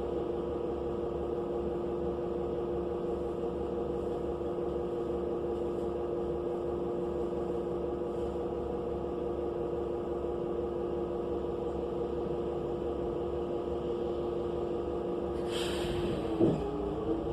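Cummins Westport L9N natural-gas engine of a New Flyer XN35 transit bus, heard from inside the cabin, running at a steady idle with a constant drone. Near the end comes a short burst of hiss and a sharp knock, and the engine note starts to rise as the bus begins to pull away.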